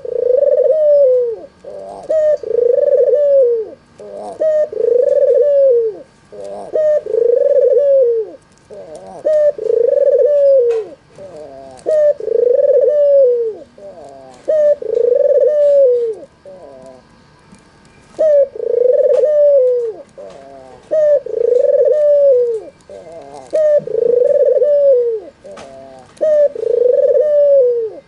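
White, red-eyed albino Barbary dove (puter) cooing over and over, its rounded, falling coos coming about once a second with a few short pauses. Faint chirps of small birds sound behind it.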